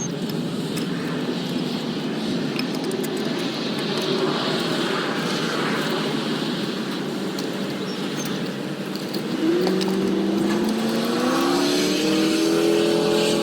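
An engine running nearby: rough and noisy at first, then about nine seconds in its pitch rises over a couple of seconds and holds steady, louder.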